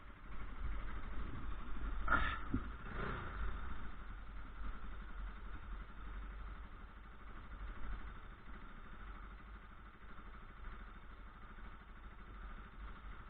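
Motorcycle engine idling low and steady, with two short clunks about two and three seconds in.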